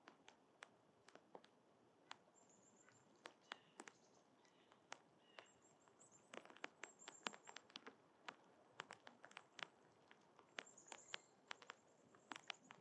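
Quiet outdoor sound: many sharp, irregular small taps and clicks, denser in the second half. Faint, very high bird chirps come in short series a few times.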